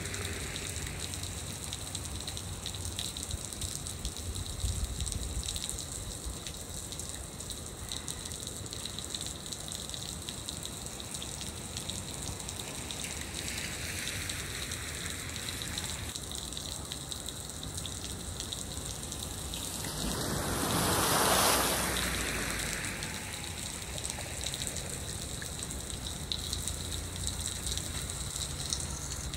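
Steady rain falling, an even hiss of water, with a louder whooshing swell that rises and fades about twenty seconds in.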